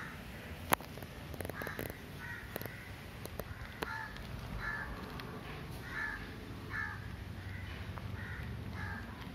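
A bird calling over and over in short calls, roughly one or two a second. A sharp click about a second in is the loudest sound, followed by a few fainter clicks, over a steady low rumble.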